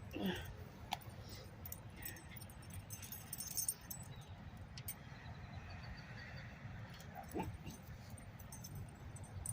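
Pet dog whimpering briefly near the start and again about seven seconds in, amid faint scattered clicks and light jingling.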